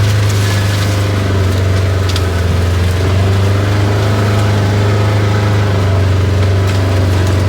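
Vehicle engine running steadily under light load with a deep, even hum, and a few light clicks over it.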